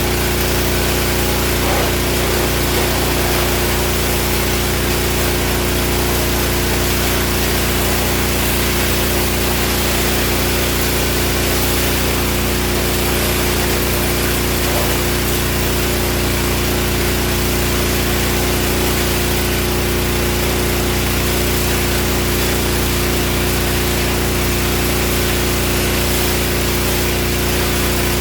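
Gas-engine pressure washer running steadily at about 3,400 psi, its small engine and pump droning under a constant spraying hiss.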